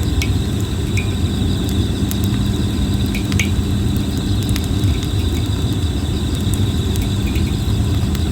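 Plum-wood campfire crackling with scattered sharp pops, over a steady high chirring of insects and a constant low rumble.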